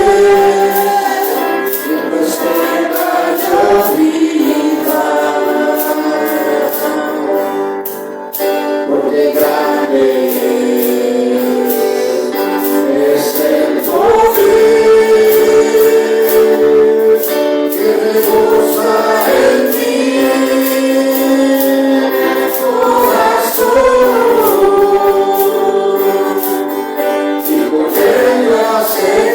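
A congregation singing a Spanish-language hymn together, with steady rhythmic accompaniment; the singing dips briefly about eight seconds in.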